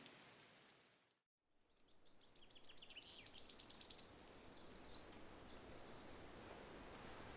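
A bird singing a fast, high trill of evenly repeated notes. It builds in loudness for about three seconds and slides down in pitch at the end, then stops suddenly, leaving faint steady background noise.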